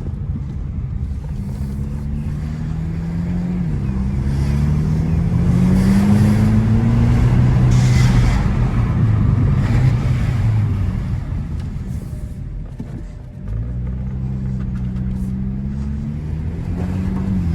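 Turbocharged 1.6-litre four-cylinder of a Hyundai Elantra N Line pulling hard under boost in a low gear, its note rising, dropping back at a gearshift about four seconds in, then climbing again, with intake whoosh through an open cone air filter. The engine falls away after about eleven seconds as the throttle is lifted, then rises once more near the end.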